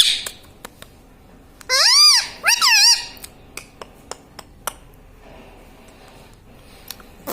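Ringneck parrot giving two short, shrill, high-pitched calls about two and three seconds in, each rising and then falling in pitch, with faint small clicks in between.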